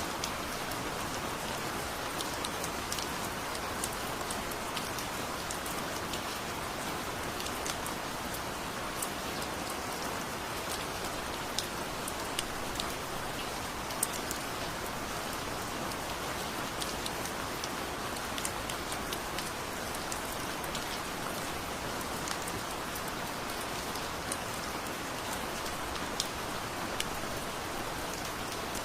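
Steady heavy rain: a dense, even hiss with many sharp drop ticks scattered through it.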